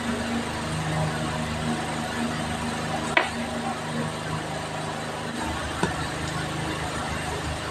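Mouth sounds of someone chewing and eating slices of ripe papaya, over a steady low hum, with a sharp click about three seconds in and a smaller one near the end.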